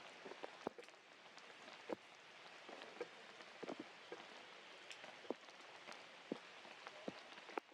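Rain falling steadily, with irregular single drops ticking sharply on a surface.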